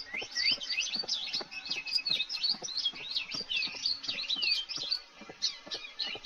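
Several small birds chirping and twittering in quick, overlapping calls, with a short lull about five seconds in.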